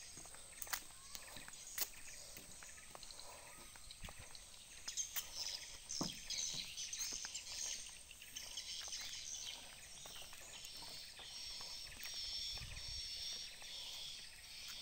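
Birds chirping, a busy high twittering that starts about five seconds in, over faint outdoor background noise with scattered clicks.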